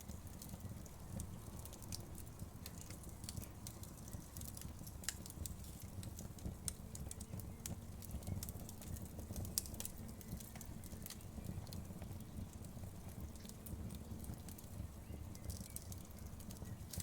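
Wood fire crackling, with frequent irregular sharp pops and snaps over a low, steady rumble.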